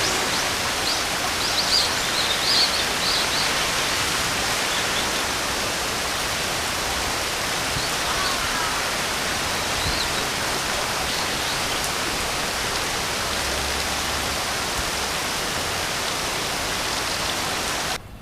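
Steady rain hiss, with a few short high bird chirps in the first few seconds and a couple more about halfway through. The sound cuts off suddenly near the end.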